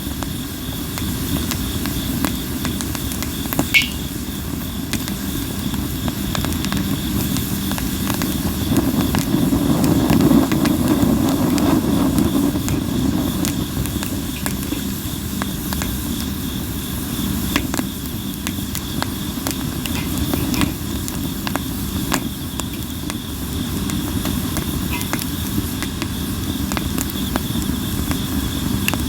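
Sawara cypress firewood burning: a steady rush of flame with frequent sharp crackles and pops, the fire swelling louder around ten seconds in. A faint, steady insect trill runs underneath.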